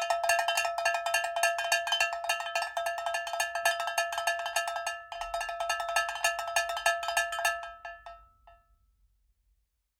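A small metal bell struck or shaken rapidly over and over, ringing at the same few bright pitches. About five seconds in there is a brief dip. The ringing stops a little after eight seconds in and fades out over about a second.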